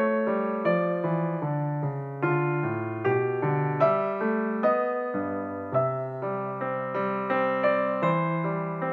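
Background piano music: a gentle keyboard melody with notes struck at a steady, even pace.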